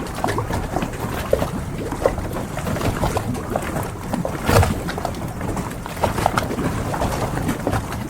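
Harbor ambience: water moving around moored boats, with many small irregular knocks and clicks and one louder knock about four and a half seconds in.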